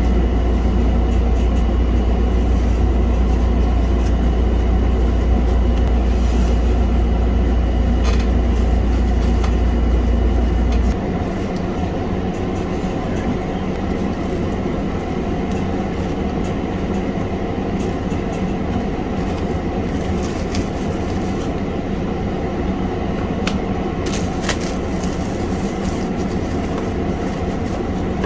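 Steady mechanical hum and rumble. A deep low rumble stops suddenly about eleven seconds in, leaving a lighter steady drone with a few faint clicks.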